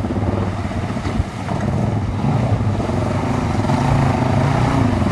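An engine running steadily, its pitch shifting slightly midway, with wind noise on the microphone.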